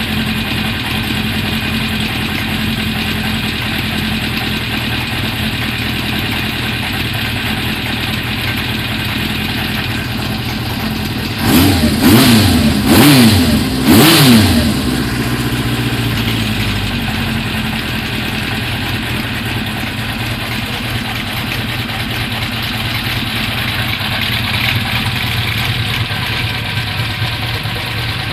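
Honda CB400F's air-cooled inline-four engine idling steadily, blipped three times in quick succession about eleven seconds in, the pitch rising and falling with each rev. The idle is smooth and even on freshly changed spark plugs, with the earlier idle misfire cured.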